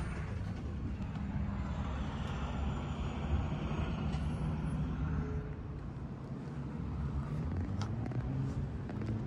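Motor vehicle engine running at a steady low pitch, with an engine note that rises near the end and a couple of faint clicks.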